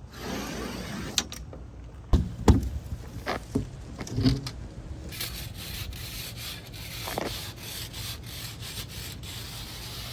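Drywall work sounds: rubbing and scraping, several hard knocks about two to four seconds in, then a quick run of short scraping strokes.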